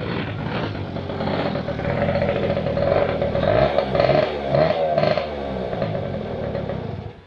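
Dirt bike engine running and revving, its pitch rising and falling several times in the middle, then cutting off abruptly near the end.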